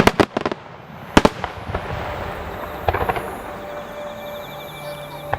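Aerial fireworks shells bursting: a rapid string of sharp bangs at the start, a single bang about a second in, then a spell of crackling and another cluster of bangs around three seconds in.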